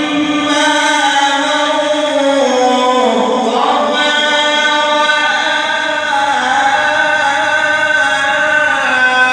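A male Quran reciter's voice in drawn-out, melodic mujawwad-style recitation, holding long notes. The pitch slides down around the middle of the phrase, then levels off.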